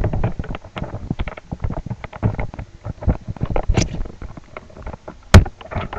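Irregular clattering taps and knocks, with a sharp louder thump about five seconds in.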